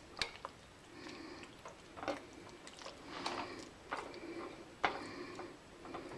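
A utensil stirring sauce-coated chicken and vegetables in a skillet: faint, irregular clicks and scrapes against the pan, with soft wet squishing of the thick sauce.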